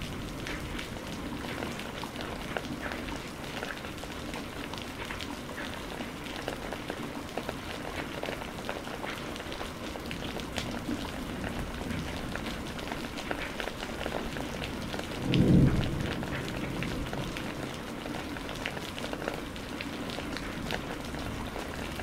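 Steady rain falling, with drops ticking sharply through the hiss. About two-thirds of the way in, a short, deep clap of thunder lasting about a second stands out as the loudest sound.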